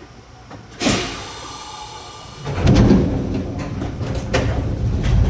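Train's sliding doors shutting with a sudden sharp sound about a second in, then the narrow-gauge train starts off about two and a half seconds in, the low rumble of its nose-suspended traction motors building and growing louder.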